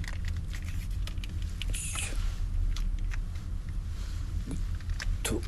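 Rain pattering on the roof of a small car: scattered ticks of drops over a steady low rumble. A brief hiss comes about two seconds in.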